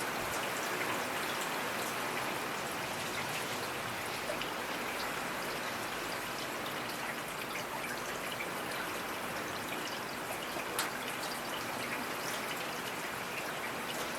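Steady rainfall, a dense even patter of raindrops with scattered sharper drop ticks, one a little louder about eleven seconds in.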